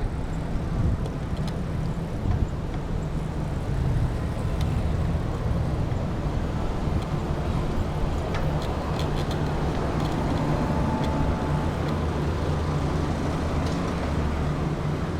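Road traffic noise from passing motor vehicles, a steady low rumble with small scattered clicks.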